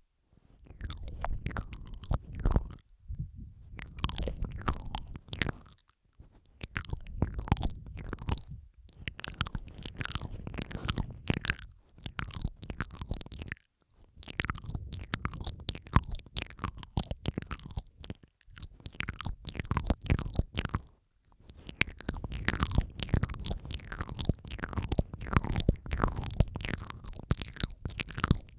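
Close-miked ASMR mouth sounds, several recordings layered: rapid wet clicks, smacks and sucking sounds in runs of a few seconds separated by brief pauses, over a low rumble.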